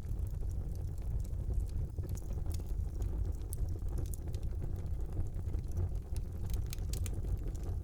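Fire burning in a brick fireplace: a low steady rumble of flames with frequent small crackles and pops, and a quick run of sharper pops near the end.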